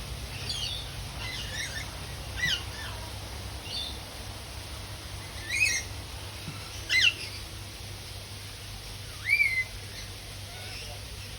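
Birds calling: a series of short, sharp squawks a second or two apart, the loudest about seven and nine seconds in.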